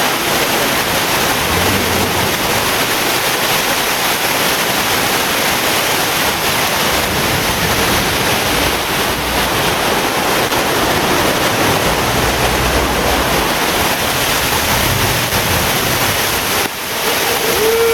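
Steady rush of a waterfall pouring nearby: a dense, even wash of water noise with a brief dip near the end.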